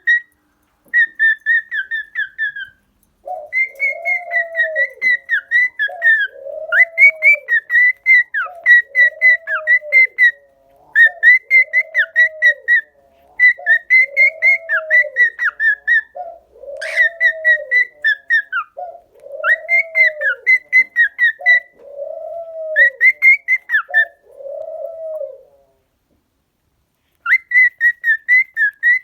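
Pet cockatiels whistling: repeated high, warbling whistle phrases, joined from a few seconds in by a lower, arched call repeating about every second and a half. Both stop briefly near the end before the high whistling starts again.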